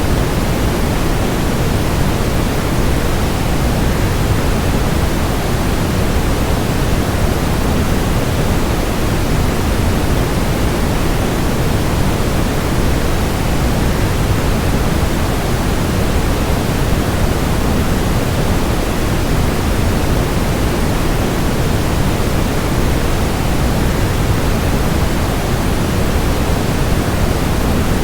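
Waterfall white noise: a steady, unbroken rush of falling water, fuller in the low end and thinning toward the top, with no change throughout.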